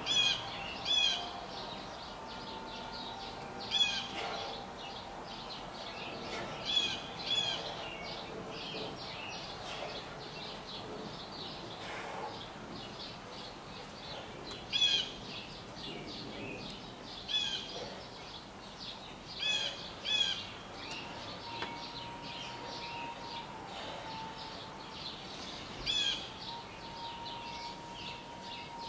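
Songbirds chirping, with short bright chirp phrases repeating every couple of seconds over a steady background of birdsong.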